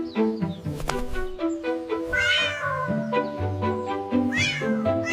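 A cat meowing twice, two drawn-out calls that rise and then fall in pitch, over gentle background music.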